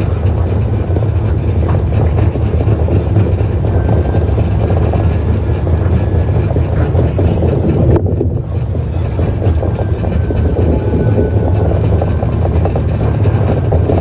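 DC Streetcar running along the line, a steady loud rumble of wheels on rail with a faint high whine over it. The upper hiss briefly drops out about eight seconds in.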